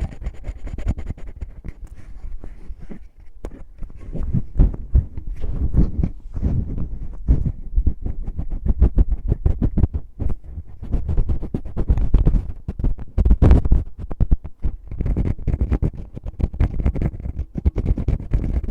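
Fingers rubbing and scratching in a microphone's ear in close-up ASMR finger ear-cleaning, a rapid, irregular run of scratchy strokes with a heavy low rumble.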